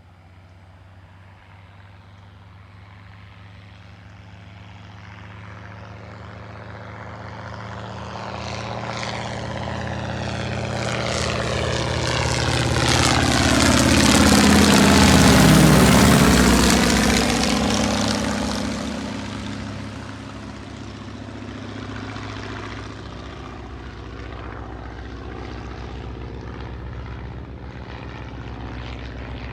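Propeller airplane flying past. Its engine sound builds for about fifteen seconds, peaks about halfway through as it passes, then falls away quickly and goes on at a lower level.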